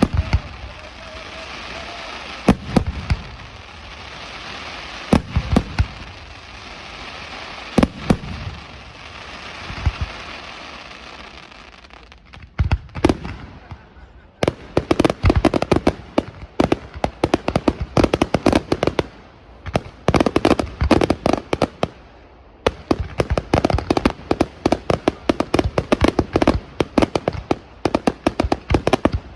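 Aerial fireworks display: a steady hiss with a few heavy shell bursts in the first half, then from about halfway a rapid, dense barrage of bangs, broken by two short pauses.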